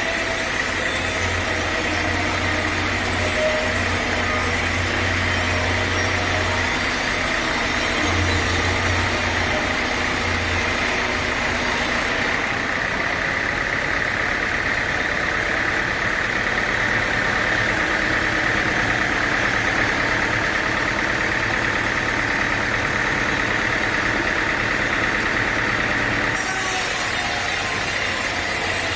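Sawmill machinery running steadily, with an engine-like hum and a steady high whine. The upper hiss drops away about twelve seconds in and comes back near the end.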